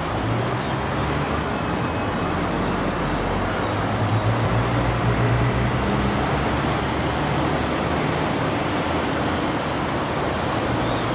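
JR Kyushu 819 series DENCHA battery-electric train running slowly past: a steady running noise with a low hum that swells about four to six seconds in.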